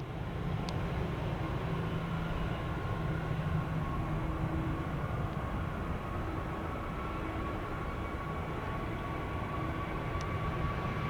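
Distant jet airliner engines making a steady low rumble, with a faint high whine that grows slightly stronger near the end.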